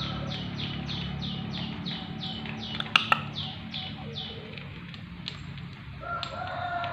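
A small bird chirping in a fast, even run, about three short falling chirps a second, for the first four seconds or so, over a steady low hum. Two sharp clicks sound about three seconds in, and near the end a longer, steady-pitched call begins.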